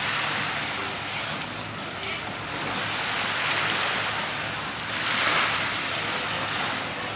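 Sea waves washing in and out, the surf swelling loudest about five seconds in, over a faint low steady hum.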